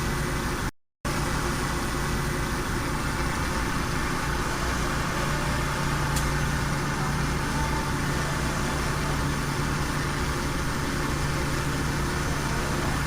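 Heavy diesel engine running steadily at a low, even pitch, broken by a brief cut to silence just under a second in.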